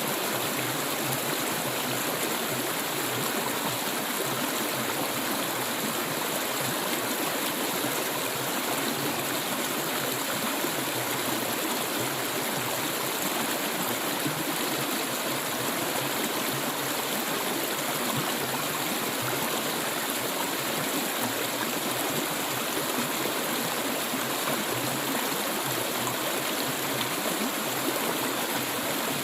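Clear water flowing steadily, an even, unbroken wash of running water.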